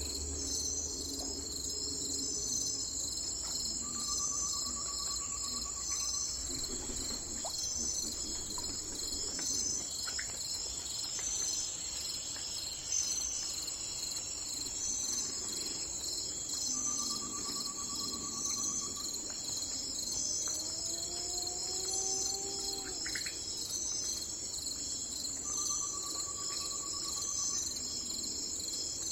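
Steady, high-pitched chorus of crickets and other insects, pulsing evenly. A short, even trill sounds three times, about nine seconds apart, and a pair of lower rising calls comes about two-thirds of the way in.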